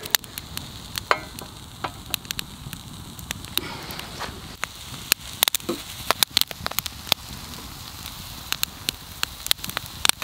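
Food frying in a pan over a campfire: a steady sizzling hiss with many scattered sharp pops and crackles.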